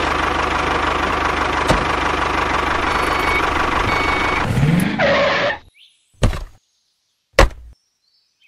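Tractor engine running steadily, with a short upward rise in pitch just before it cuts off about five and a half seconds in. Two short, sharp knocks follow about a second apart.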